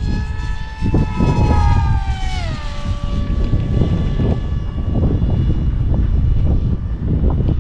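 Electric brushless motor and pusher propeller of an RC Astro Z wing whining in flight. The pitch holds, then drops quickly to a lower steady whine about two and a half seconds in. Wind rumbles on the microphone throughout.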